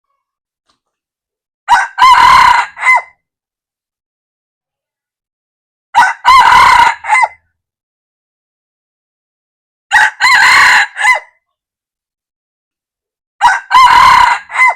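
Red junglefowl rooster crowing four times, about four seconds apart, each a short clipped crow with a brief opening note.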